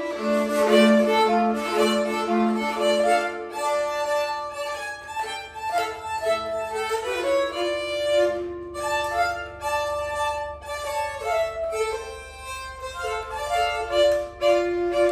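Two nyckelharpas, Swedish keyed fiddles, bowed together in a folk tune, with a low held note under the melody for the first few seconds.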